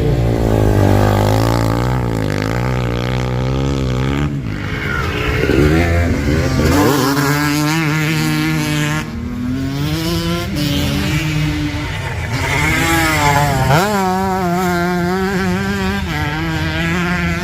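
Vintage racing motorcycle engines at full throttle, their pitch climbing and dropping repeatedly as the riders change gear. More than one bike is heard at once, with a sharp rise in pitch about fourteen seconds in.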